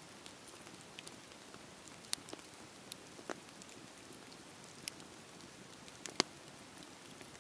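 Wood fire crackling in a fireplace: a steady low hiss with scattered sharp pops, the loudest about two seconds in and about six seconds in.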